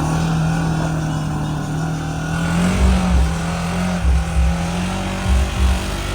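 Side-by-side UTV engine running hard on a hill climb, its pitch stepping up slightly about two and a half seconds in, with irregular low thumps after that.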